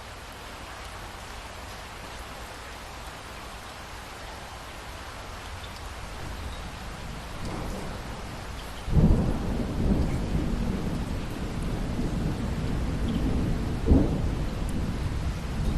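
Steady rain falling, with thunder: a low rumble builds from about six seconds in, a loud thunderclap breaks about nine seconds in and rolls on, and a sharp crack comes near the end.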